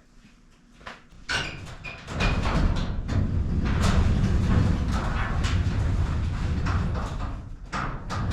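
A large shop door being opened. A few clicks about a second in, then a steady rattling rumble with knocks as the door rolls open.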